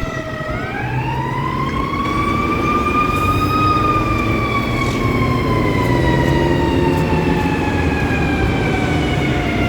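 Emergency vehicle siren wailing: after a short dip, the pitch rises slowly for about three seconds, then falls slowly, with a heavy vehicle's engine rumbling underneath.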